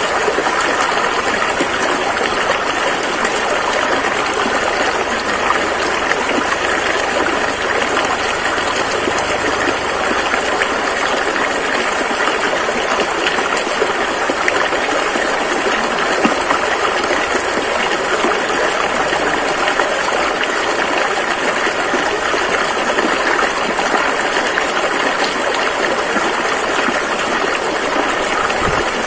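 A rushing river running steadily, with an even, full hiss of flowing water that does not let up.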